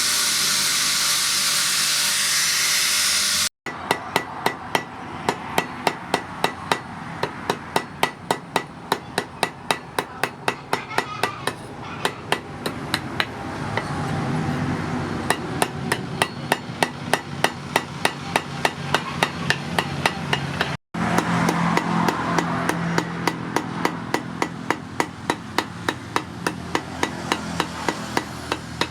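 A steady loud hiss that stops suddenly about three and a half seconds in. Then a hand hammer forges the steel of a truck leaf spring on an anvil, in fast, even ringing blows of about three a second.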